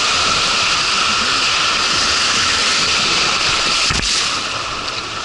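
Water rushing down a water-park slide, a steady loud hiss, with a single low thud about four seconds in.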